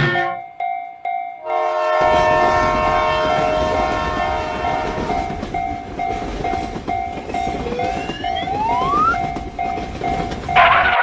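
Railroad crossing warning bell dinging in a steady, even rhythm while a train horn sounds for a few seconds, starting about a second and a half in, and a train passes with a continuous rumble. A brief loud burst of sound comes near the end.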